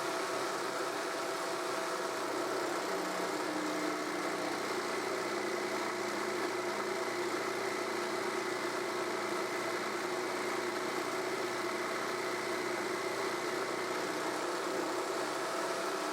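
Table-mounted jigsaw running steadily at one even speed, its reciprocating blade making a cut through a workpiece fed on a miter cut sled.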